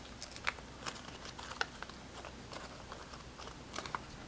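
Folded paper crinkling in scattered soft clicks and crackles as an origami fireworks star is pushed open and squished by hand.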